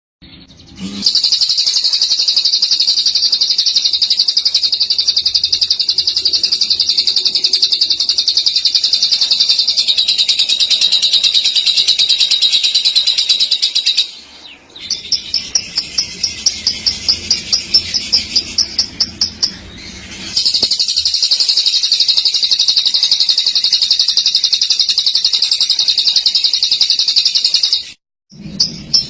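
Lovebird giving its long 'ngekek' call: a loud, continuous, high-pitched rolling trill for about thirteen seconds, then a few seconds of separate rapid chirps, then another long trill of about seven seconds that cuts off suddenly.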